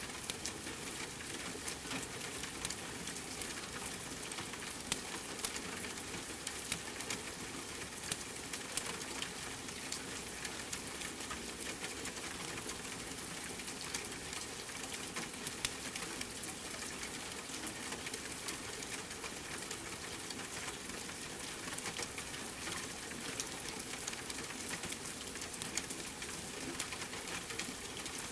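Steady rain hiss mixed with a crackling wood fire, dotted with many small sharp pops.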